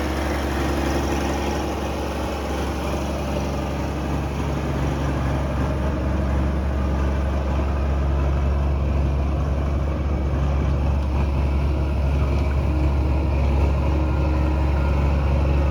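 A large engine idling steadily, a deep, even hum with no revving.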